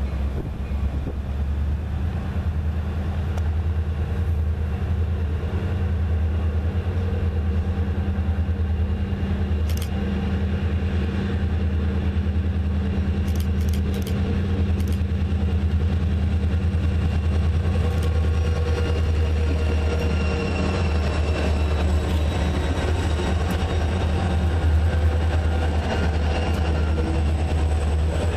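A lash-up of six-axle diesel freight locomotives running past with a steady deep engine hum, followed by a string of covered hopper cars; a few sharp clicks sound in the middle, and thin high-pitched steel-wheel squeal builds in the second half as the cars roll through the curve.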